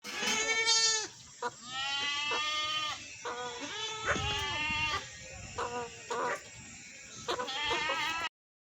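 Farm animal calls: a run of several separate, quavering bleats one after another, stopping abruptly near the end.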